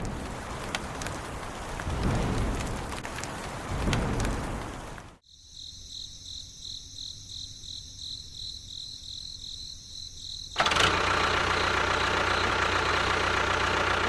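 A noisy rumbling stretch, then an abrupt cut to a quiet stretch with a faint high chirping that pulses evenly. At about ten and a half seconds a small motor starts suddenly and runs steadily.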